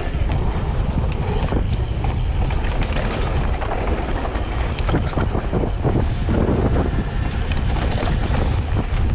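Wind buffeting the microphone with a steady low rumble while a mountain bike, a Specialized Stumpjumper Evo, rolls fast downhill over dirt. Its tyres crunch and the frame and chain rattle in many small knocks over the rough ground.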